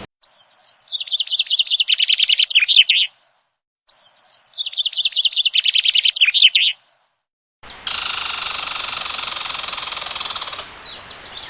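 Bird song with dead silence around it: two matching phrases of rapid, high, quickening notes that grow louder, then a steady high buzz from about two-thirds in, and a run of chirps near the end.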